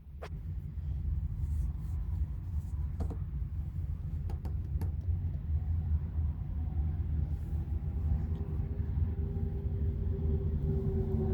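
Low, steady rumble of highway traffic. A faint engine drone comes in about halfway through and grows slowly louder as a vehicle approaches.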